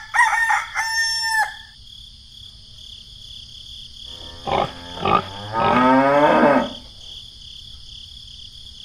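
Farm animal calls: a few short pitched calls in the first second and a half, then more calls and one longer wavering call around five to six seconds in, over a steady faint high hum.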